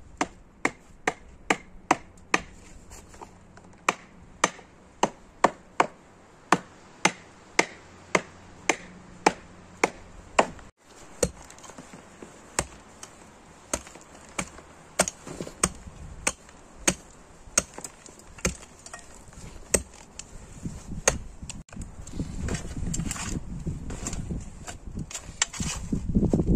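Wood being chopped by hand: sharp, evenly spaced strikes about two a second. Near the end the strikes give way to a louder rustling, crackling noise.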